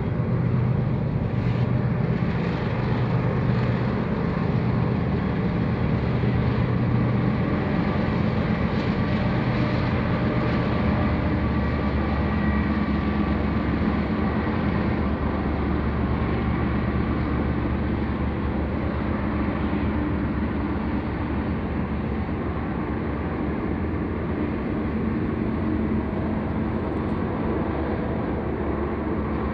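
Train passing close by, a steady heavy rumble with the low drone of its locomotive engines underneath.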